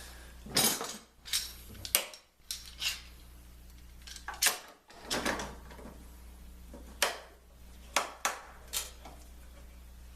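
About a dozen sharp, irregular knocks and clanks from woodworking clamps being handled and set on a glue-up.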